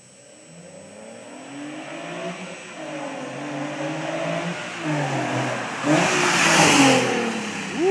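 2009 Infiniti G37 coupe's 3.7-litre V6 through an HKS Hi-Power exhaust, accelerating hard through the gears. The pitch climbs and drops back at each shift, and the sound grows louder until it peaks near the end.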